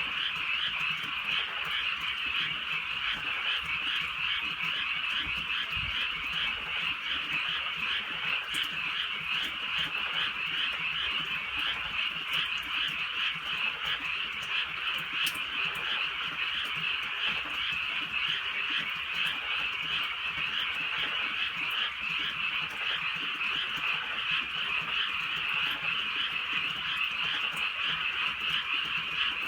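Dense chorus of many frogs calling at once, a continuous high-pitched croaking trill with no break or change in level.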